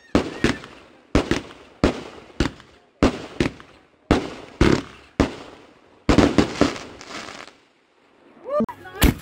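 Aerial fireworks going off in quick succession: sharp bangs, often in pairs, about every half second to second, each fading out quickly. A little after six seconds there is a stretch of dense crackling, and after a short lull a single sharp bang comes near the end.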